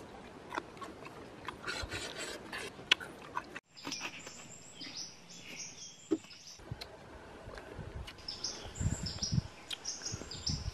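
Close, crunchy chewing and biting on a raw cucumber, with sharp crackling clicks, which stops abruptly a few seconds in. Then birds chirp in short high calls, with a few low thumps near the end.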